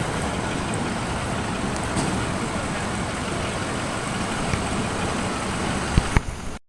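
Steady rumble of an idling vehicle engine with outdoor hiss, broken by two sharp knocks near the end, after which the sound cuts off abruptly.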